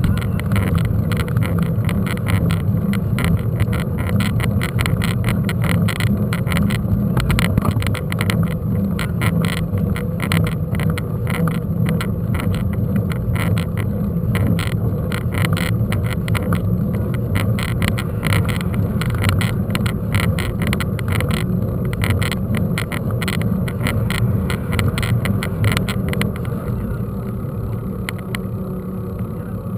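Ride noise from a moving mountain bike: a steady low rumble with continuous fast rattling, as of tyres and frame on a rough dirt track.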